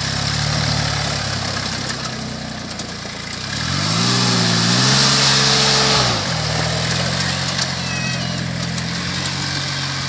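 Hinomoto C174 compact tractor's diesel engine idling steadily, revved up once for about two seconds and then dropping back to idle.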